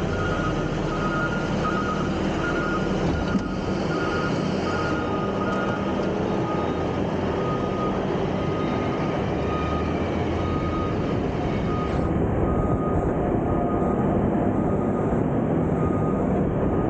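Heavy diesel trucks and machinery running steadily, with a reversing alarm beeping repeatedly at an even pace. A single thump comes about three seconds in.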